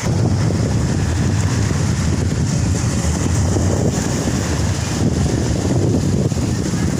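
Strong sea wind buffeting the microphone in a heavy, fluctuating rumble, over the wash of big surf.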